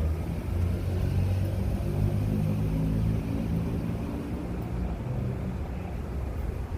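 New York City subway train running with a low rumble and a hum. It swells over the first seconds and eases off after about four seconds.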